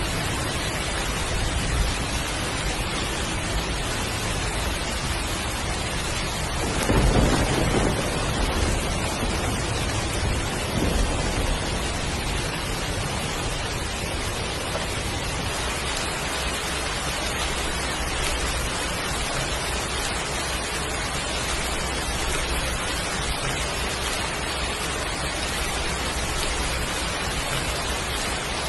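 Heavy rain falling steadily, with a roll of thunder about seven seconds in and a smaller rumble a few seconds later.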